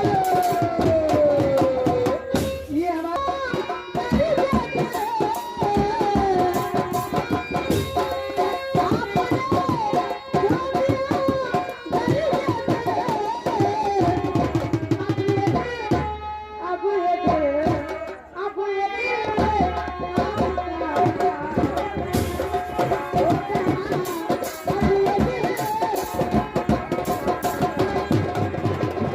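Instrumental folk stage music: tabla playing a busy rhythm under a gliding melody line, easing into a short lull about two-thirds through before picking up again.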